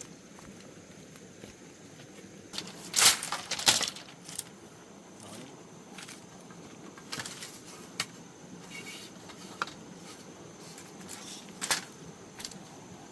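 Irregular knocks and clatters, a quick cluster of them about three seconds in and single sharper ones later, over a steady low background.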